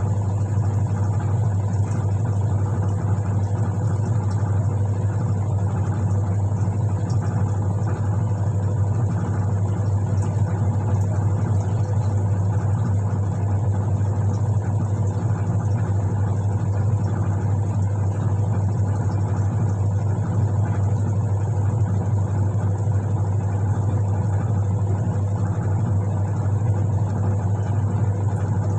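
Whirlpool White Magic Classic washing machine running, its motor giving a steady, unchanging low hum.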